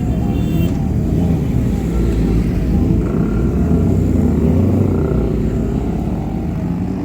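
Motorcycle engines running loud, one revving in quick repeated throttle blips over a heavy low rumble.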